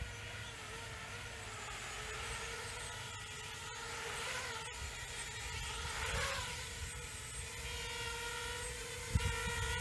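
Homebuilt QAV250 quadcopter's motors and propellers buzzing in flight, a steady pitched whine that wavers and briefly climbs as the throttle changes. Wind rumble on the microphone comes in near the end.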